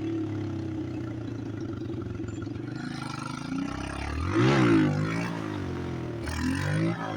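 Motorcycle engine running at a steady low speed, then revved up sharply and back down about four seconds in, with a second, shorter rev near the end.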